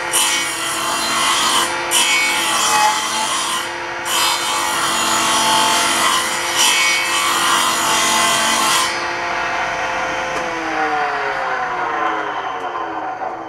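Homemade table saw cutting through wood: the blade noise rides over the motor's steady hum. About nine seconds in the cut ends, and the motor then winds down, its hum falling in pitch as the blade slows.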